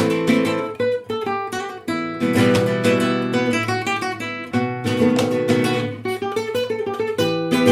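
Background music: acoustic guitar playing chords and runs of plucked notes.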